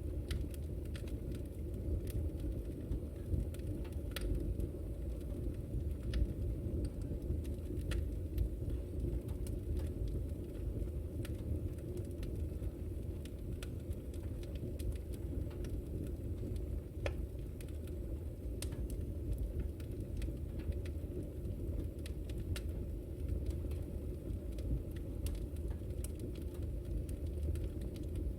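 Wood fire burning in a fireplace: a steady low rumble with scattered small crackles and pops, a few each second.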